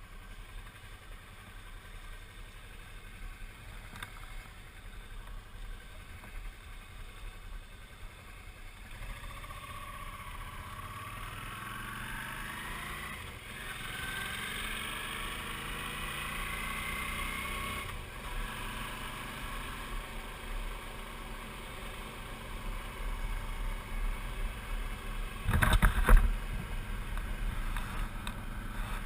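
Suzuki V-Strom 650's V-twin engine running under way, with wind noise. About ten seconds in the engine note rises as it accelerates, and a brief loud burst comes near the end.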